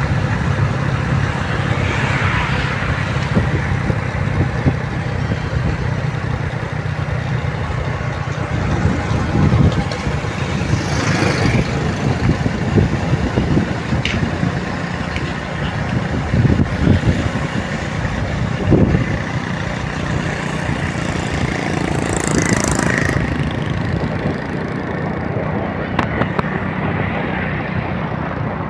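Street traffic: motor vehicle engines running and passing, with a steady low rumble.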